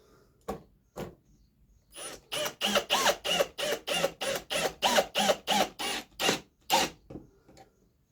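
Two sharp clicks, then a power drill driving a pocket-hole screw in a fast run of short pulses, about three a second, the motor whirring up and down with each pulse. It stops near the end.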